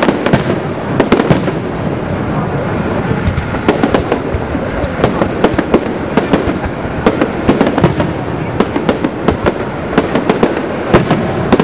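Fireworks display in full barrage: a continuous dense crackling over a steady rumble, with many sharp bangs going off several times a second.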